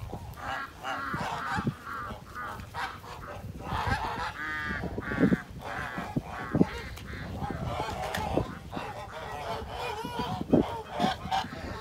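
A flock of geese calling, with many short overlapping calls and one louder, drawn-out call about four and a half seconds in.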